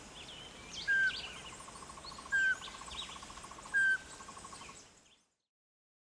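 Birds calling: three short, slightly falling whistled notes about a second and a half apart, with a fast run of pulsed notes and scattered higher chirps between them, fading out near the end.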